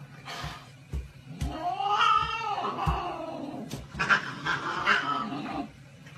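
Domestic cat yowling: one long call that rises and falls about two seconds in, then a rougher, longer call about four seconds in, with a few soft knocks between.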